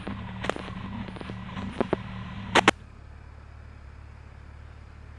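Police scanner with an open channel that is not carrying speech: a low hum, crackle and clicks, ending in a short squelch burst about two and a half seconds in. After that only a low, steady background rumble remains.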